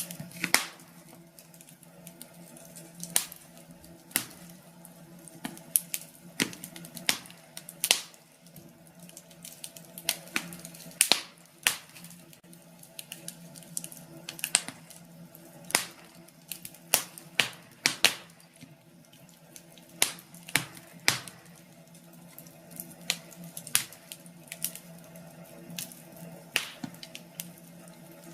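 Wood fire crackling in a fireplace: irregular sharp pops and snaps over a faint steady hum.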